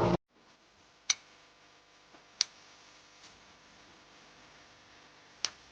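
Three short, sharp clicks, unevenly spaced, over near silence.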